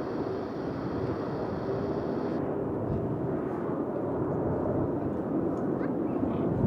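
Steady jet rumble from an Airbus A380's four Rolls-Royce Trent 900 engines on landing approach. The higher hiss drops away about two and a half seconds in.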